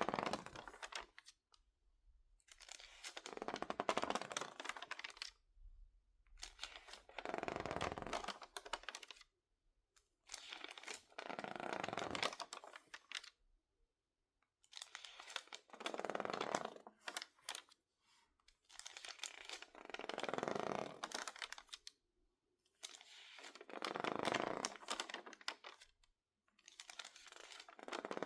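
Stiff, water-crinkled magazine pages handled by hand: slow crackling paper rustles, each swelling and fading over about two seconds, about one every four seconds. The dried-out, misted pages give the crunchy crinkle.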